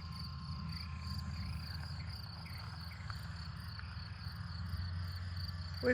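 Crickets chirping steadily in a high, even rhythm of several chirps a second, over a low steady rumble.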